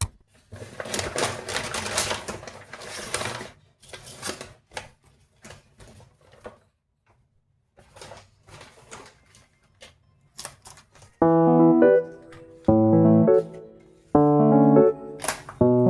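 A dense rustle with many sharp clicks for about three seconds, then scattered light clicks and taps; piano music comes in about eleven seconds in.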